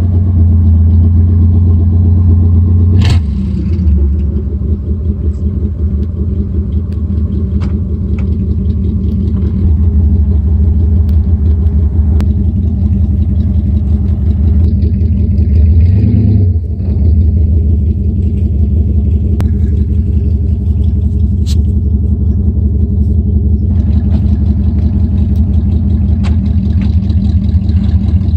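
Cadillac Fleetwood's V8 engine running steadily and loud, with a brief change in engine speed about three seconds in and a short rise and drop around the middle.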